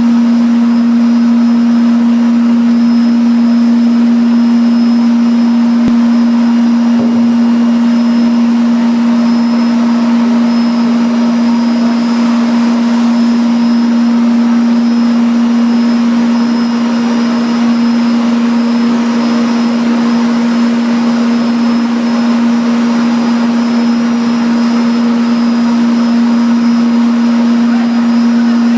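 Industrial food-processing machinery running: a loud, steady drone with a fan-like rushing noise over it, unchanging throughout.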